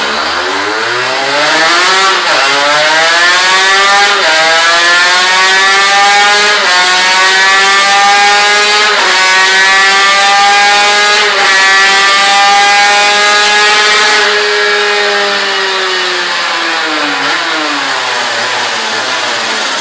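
Aprilia RS 250's two-stroke V-twin engine run flat out through the gears on a Dynojet dyno: the note climbs steeply, dipping briefly at five upshifts roughly every two seconds. About fourteen seconds in the throttle closes and the engine note falls away steadily as the rollers slow.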